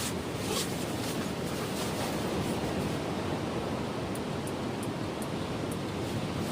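Steady rush of strong wind and surf breaking on the shore.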